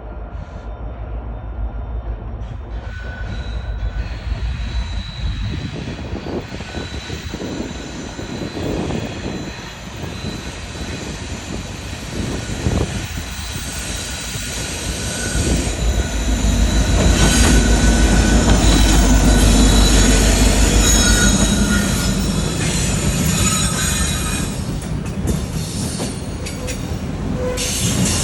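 A train passing with its wheels squealing in thin, high-pitched tones over a steady rumble, growing louder to a peak past the middle before easing off a little.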